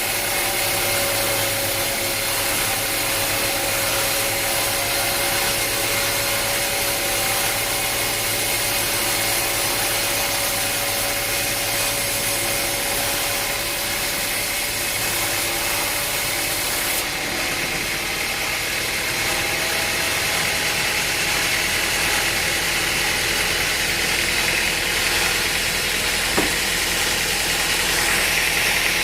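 Sawmill machinery running steadily: a motor with several steady whining tones over a constant hiss, and a single sharp click near the end.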